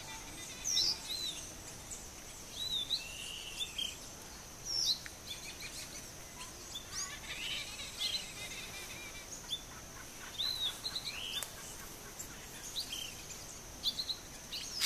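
Small birds feeding together give short, quick chirps and slurred call notes, scattered and overlapping throughout, over a steady high-pitched whine.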